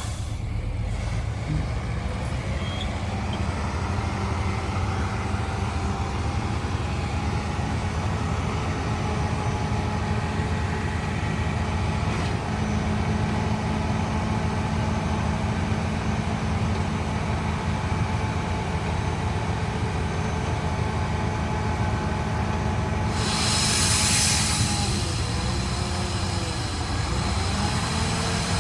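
Heavy diesel construction machine running steadily, with a deep engine drone and a faint high whine. About 23 seconds in, a burst of hiss lasts about two seconds.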